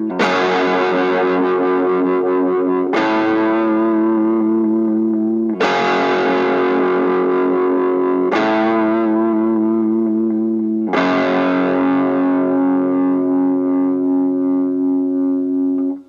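Electric guitar with distortion, sustained chords struck about every two and a half seconds and left ringing. The last chord holds for about five seconds before the sound cuts off.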